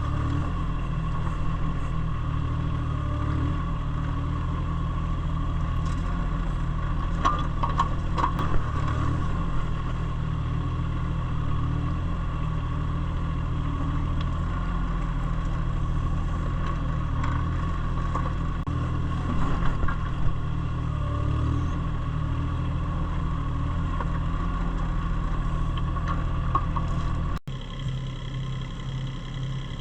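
Engine of a working machine running steadily, with a few short clanks and scrapes from the digging about a quarter of the way in and again past the middle. Near the end the engine note breaks off abruptly and comes back changed.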